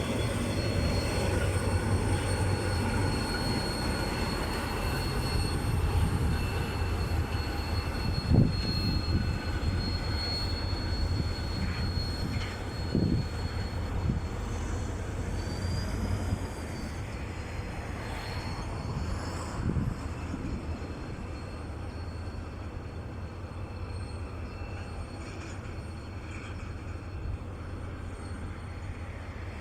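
GT22LC-2 diesel-electric locomotive running steadily while shunting wagons, with a thin high whine over the engine rumble. Three sharp knocks stand out, a third, half and two-thirds of the way through, and the sound eases off somewhat in the second half.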